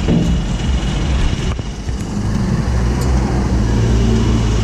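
Euro 4 truck diesel engine running through an aftermarket racing muffler: a loud, low drone that eases off briefly about a second and a half in, then holds a steady, even tone.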